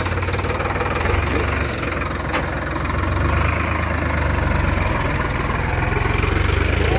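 Diesel tractor engine running steadily with a low, pulsing rumble.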